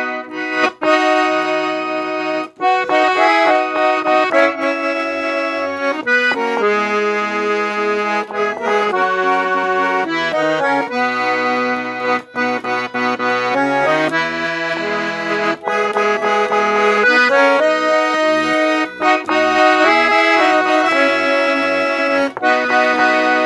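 Accordion playing a tune: held chords and melody notes that change every second or so, over short repeated bass notes.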